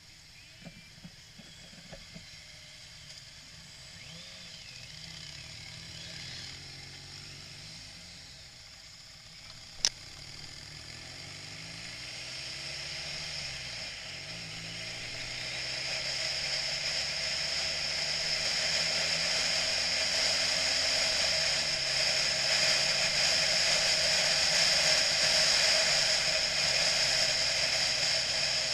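Motorcycle under way, its engine note rising and falling with throttle and gear changes, while wind noise grows steadily louder as speed builds. A single sharp click comes about ten seconds in.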